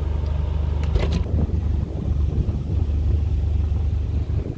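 Low steady hum of a 2013 Subaru BRZ's 2.0-litre flat-four engine idling. A couple of sharp clicks come about a second in, followed by uneven buffeting on the microphone.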